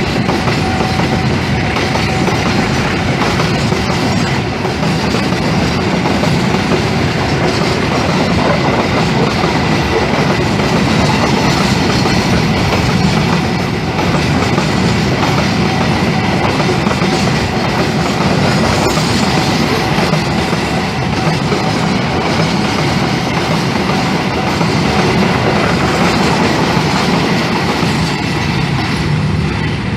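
Passenger train rolling by with a steady, loud clatter of wheels on the rails.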